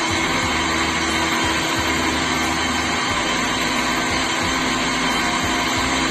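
Washing-machine electric motor running steadily, turning a small rotating post: an even motor hum with a constant tone. The motor has one faulty winding, so it turns only one way and needs a push to start.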